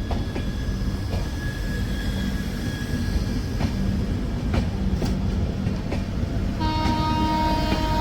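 Train running on the track: a steady rumble with scattered clicks of the wheels over rail joints. Near the end a steady pitched horn sounds for about two seconds.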